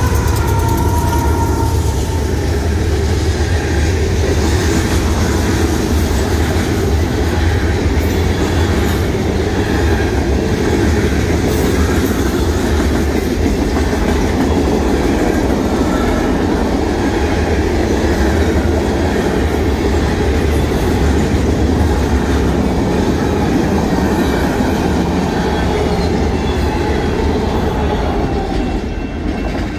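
Freight train passing close by. Two mid-train Union Pacific diesel locomotives (distributed power units) go by with a low engine drone, then freight cars roll past with steady wheel rumble and clatter on the rails. The sound falls away near the end as the last car clears.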